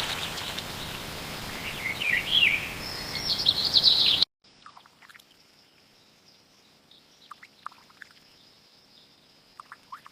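Birds chirping in quick bursts over a loud steady background noise; about four seconds in, the sound cuts off abruptly to a much quieter background with a faint steady high whine and a few faint chirps.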